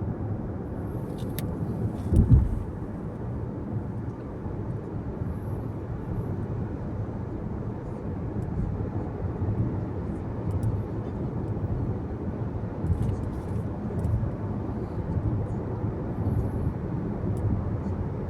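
Steady low rumble of tyre and engine noise inside a moving car's cabin, with a single thump about two seconds in.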